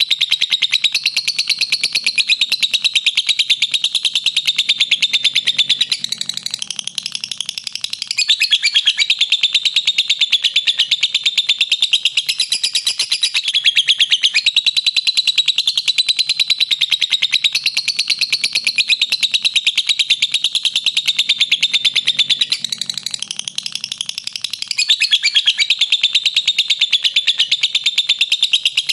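Lovebird singing a long, unbroken ngekek: a fast, continuous run of shrill chattering notes. The chatter briefly softens and changes character about six seconds in and again about twenty-three seconds in, then resumes at full strength.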